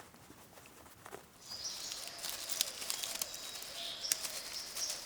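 Forest ambience: light rustling taps, then about a second and a half in a steady high insect buzz sets in, with scattered chirps over it.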